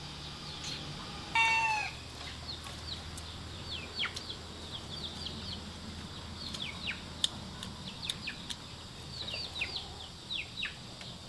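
Chickens calling: one loud, brief squawk about a second and a half in, then many short, high chirps falling in pitch, scattered throughout, with a few sharp clicks.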